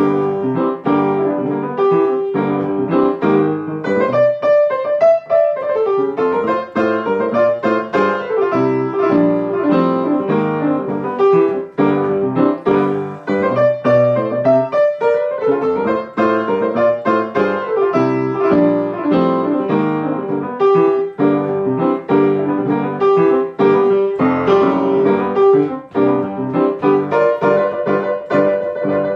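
Solo piano instrumental break in a pop-jazz song, played with busy chords and melody and no singing.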